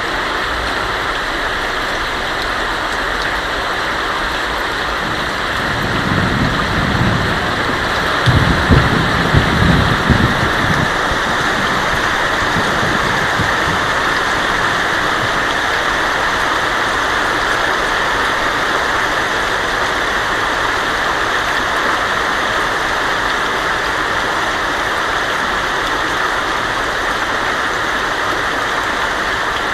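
Heavy rain drumming steadily on a tin roof, with a low rumble of thunder swelling up from about six seconds in and fading by about eleven seconds.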